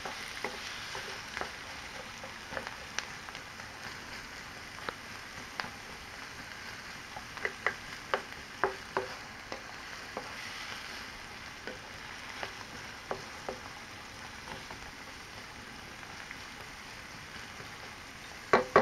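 Diced onion, ginger and garlic sizzling steadily in hot oil in a ceramic non-stick frying pan, with scattered clicks and taps as a wooden spatula stirs them. There is a louder knock near the end.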